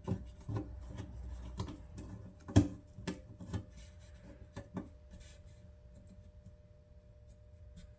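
Small clicks and scrapes of a screwdriver working a screw into a threaded hole that is hard to line up, with a sharper knock about two and a half seconds in. The handling thins out after about five seconds.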